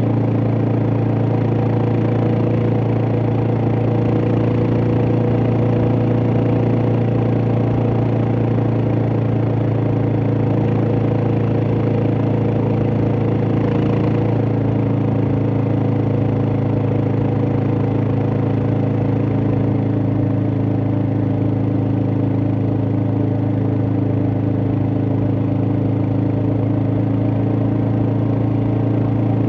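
Suzuki DR650's single-cylinder four-stroke engine running at a steady, unchanging pitch.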